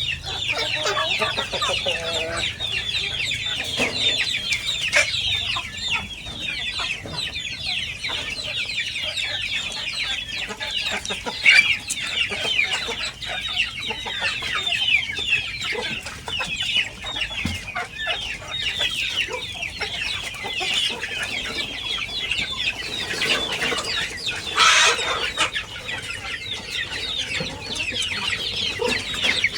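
A flock of free-range village chickens calling: many short, high calls that fall in pitch overlap without a break, with a louder call about 25 seconds in.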